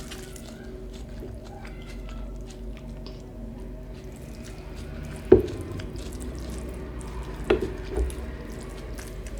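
Close-up eating sounds: wet squishing of rice and chicken curry being mixed and eaten by hand, with small clicks throughout and three sharper knocks, the loudest about halfway through and two close together near the end.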